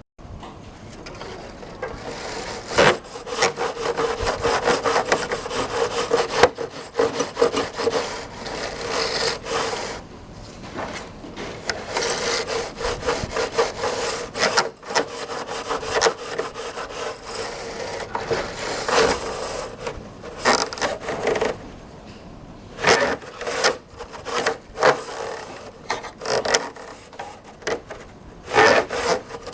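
A long, double-spiral air-conditioner cleaning brush scrubbing back and forth, its bristles rasping in many irregular strokes with a few short pauses.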